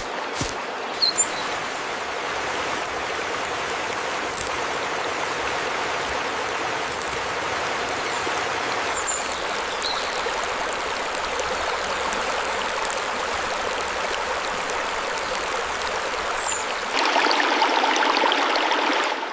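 Stream water running steadily, with a few faint high chirps over it; the rush grows louder for the last couple of seconds, then drops away suddenly.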